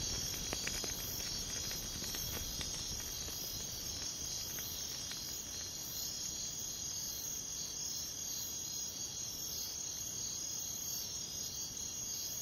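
Crickets chirping steadily in a continuous chorus.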